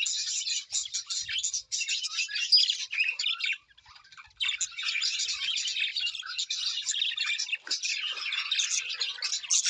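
Many birds chattering and chirping together in a dense, high-pitched stream of overlapping calls, breaking off briefly a little under four seconds in.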